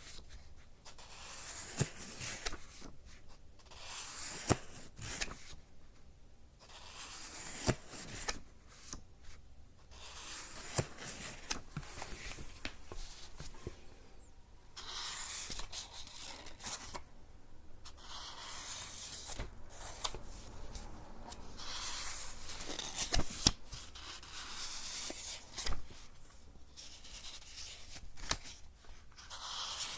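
Close-microphone ASMR rubbing and scratching sounds in irregular strokes of a second or two, with short pauses and scattered sharp clicks.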